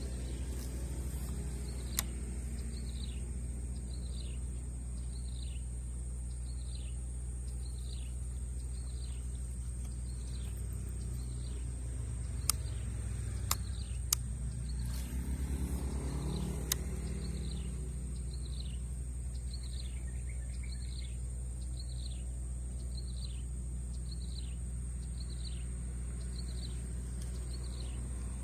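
A bird repeats a short falling chirp a little more than once a second over a steady high insect whine. A few sharp clicks come through, and there is a brief swell of lower sound about halfway.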